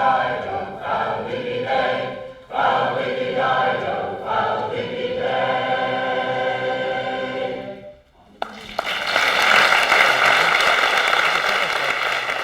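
Folk choir singing the last phrases of a song and holding a long final chord that ends about eight seconds in. Audience applause breaks out just after and is louder than the singing.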